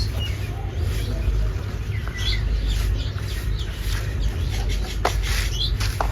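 Short bird chirps, a few scattered calls, over a steady low rumble, with two sharp clicks near the end.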